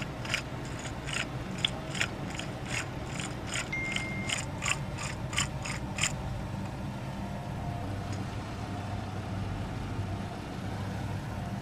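Hand ratchet wrench clicking at about two to three clicks a second for roughly six seconds, then stopping, as it works a triple-square bolt on the front wheel hub assembly.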